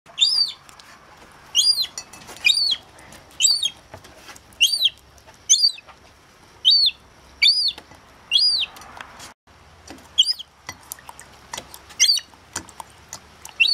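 Young gull chick giving a steady series of short, high whistled calls that rise and fall, about one a second, the begging call of a juvenile gull wanting food. Light clicks and taps come between the calls.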